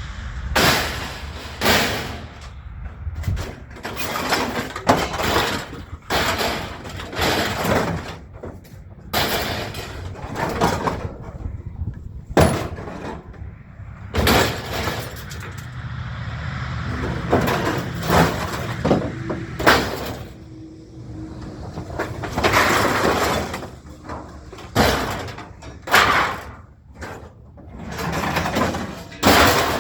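Scrap metal being loaded onto a truck: a steady run of irregular clanks, bangs and crashes, about one a second, as pieces are dropped and thrown onto the pile.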